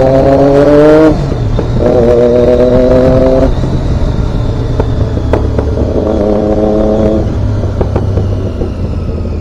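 Triumph Daytona 675 three-cylinder engine pulling under throttle while riding. Its note rises and breaks off about a second in, then holds steady twice more, under steady wind and road noise.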